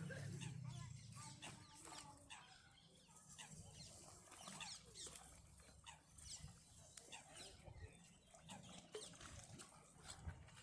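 Birds calling outdoors: many short, high chirps and squeaks scattered throughout, with a low rumble in the first second or so.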